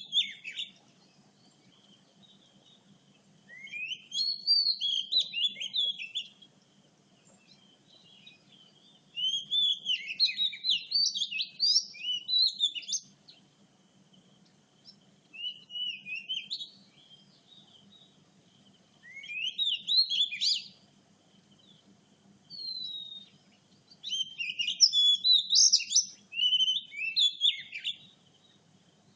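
Oriental magpie-robin singing: phrases of rapid, varied whistled notes lasting one to four seconds, separated by pauses of a few seconds.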